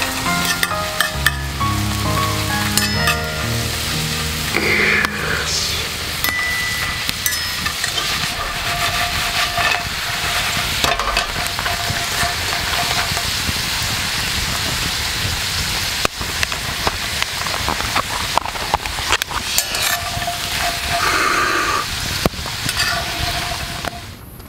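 French fries sizzling and crackling in hot melted butter in a skillet, a dense steady hiss with scattered sharp clicks. Background music plays over the first few seconds and fades out.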